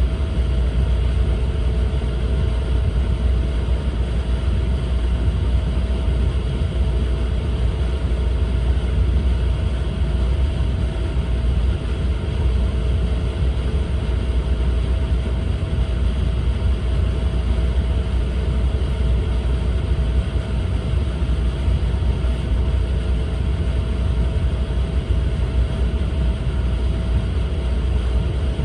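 Steady running noise inside the passenger cabin of an E4 series Max Shinkansen train at speed: a deep, even rumble with a faint steady tone above it.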